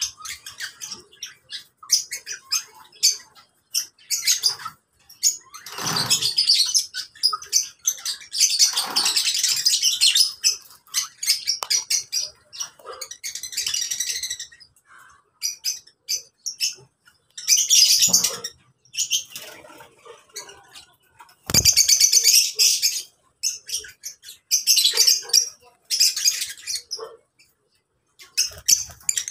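A flock of lovebirds chattering with shrill, rapid chirps and screeches in irregular bursts, louder stretches coming and going, with a few short low flutters or thumps among them.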